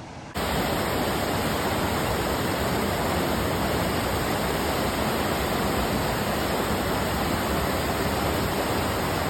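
A river rushing, a loud steady wash of water noise that starts suddenly just after the start.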